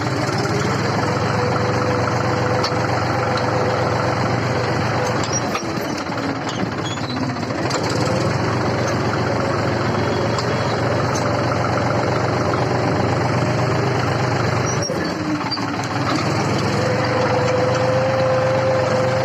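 Tractor diesel engine running steadily and working hard. It revs up about a second in, holds, eases off around five seconds, and revs up and holds again near the end.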